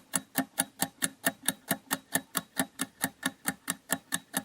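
Countdown timer sound effect: clock-like ticking, even and steady at about five ticks a second.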